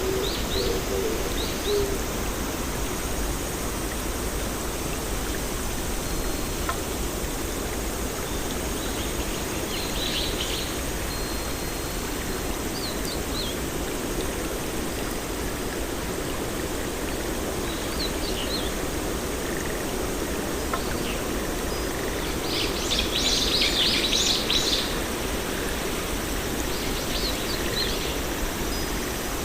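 Birds chirping now and then over a steady outdoor hiss, with the busiest flurry of chirps late on.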